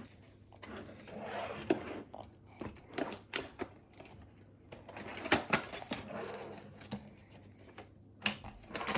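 Toy packaging being opened by hand: irregular sharp clicks and knocks with soft rustling of a cardboard box and its plastic insert.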